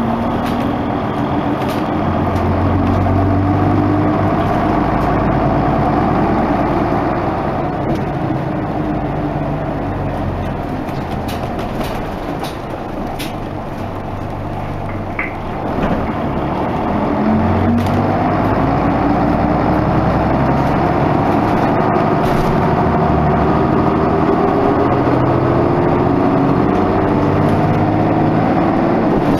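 Isuzu Erga Mio bus's six-cylinder diesel engine under way, with its note climbing as it pulls. It eases off and quietens for a few seconds about halfway, then climbs again.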